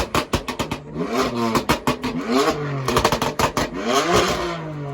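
Car engine revved hard several times, its pitch climbing and dropping with each blip, with clusters of sharp crackles between the revs.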